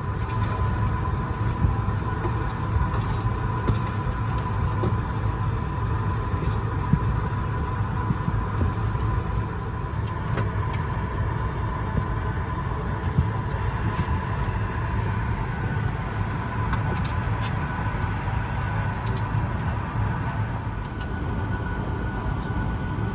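Steady hum of an Airbus A220-300 parked at the gate with its systems running: a low rumble with a steady whine on top and occasional light clicks.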